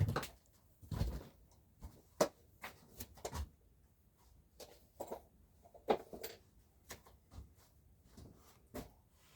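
Irregular clicks, taps and knocks of a plastic Scalextric slot car and a small screwdriver being handled on a work surface, with the sharpest knocks in the first few seconds and another a little before the end.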